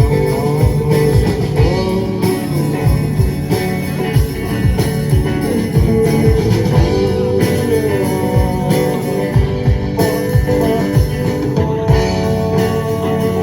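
Live rock band playing an instrumental passage: an electric guitar line with bending notes over bass, drums and cymbals.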